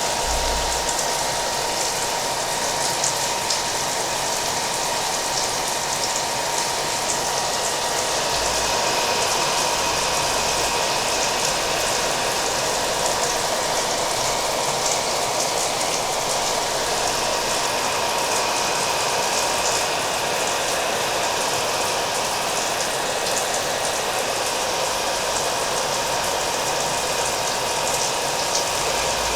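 A hair dryer running steadily with a constant whine, together with continuous rain pattering.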